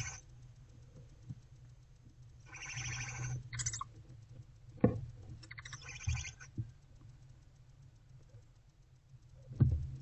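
Barn owlets giving raspy hissing calls, one about two and a half seconds in and another about six seconds in, with a few soft knocks of them shifting on the wooden floor of the nest box.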